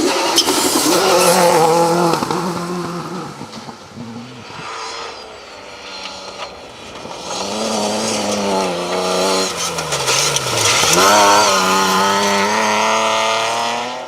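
Rally car engine under hard acceleration, revving up and dropping through gear changes again and again, its note falling low about ten seconds in and then climbing sharply as it pulls away.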